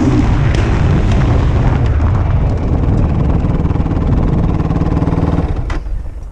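Yamaha YFZ450R quad's single-cylinder four-stroke engine running, with a rapid, rough firing beat. The engine note drops away near the end.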